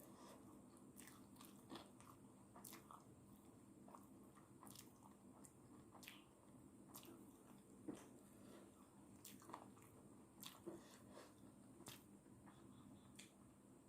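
Faint close-up chewing of instant noodles, with irregular small wet clicks and smacks from the mouth.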